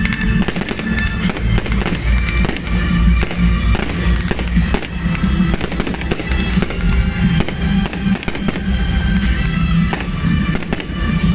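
Aerial fireworks shells bursting in rapid succession, many sharp bangs and crackles, over music.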